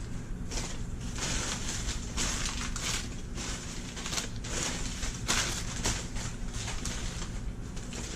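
Packaging rustling and crinkling in irregular handfuls as a potted plant is unwrapped by hand.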